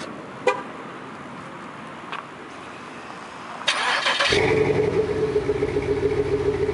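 2006 Chevy Monte Carlo SS's 5.3-litre V8 cranking briefly and catching about four seconds in, then settling into a steady idle through Thrush Welded mufflers with the resonators deleted: a start on a cold day. A single click sounds about half a second in.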